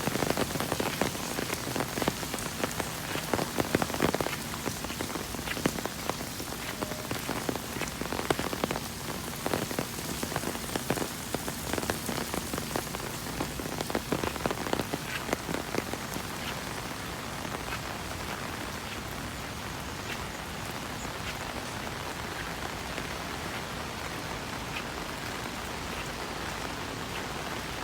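Rain falling steadily, with many sharp, close drop impacts for the first sixteen seconds or so, after which it settles into a smoother, even hiss.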